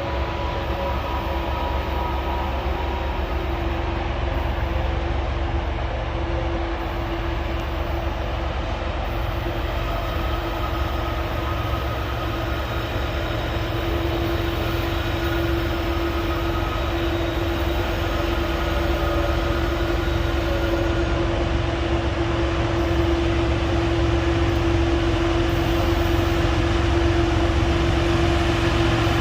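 Freight train rolling past: a steady rumble of wheels on rail, with a steady tone that grows louder in the second half.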